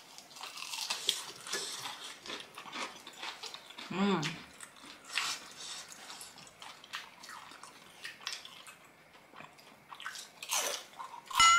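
Close-miked eating: chewing and biting into fried squid tempura, with many small wet clicks. A short hummed "mm" comes about four seconds in.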